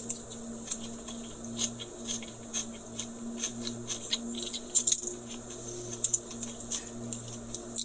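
A man chewing a mouthful of crispy chicken sandwich close to the microphone: irregular moist crunches and clicks, over a faint steady low hum.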